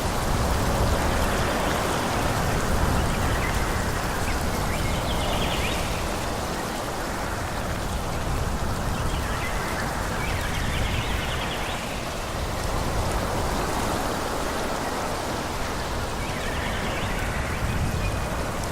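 Steady rushing forest ambience of wind through the trees, swelling and easing slowly, with a few faint high chirps now and then.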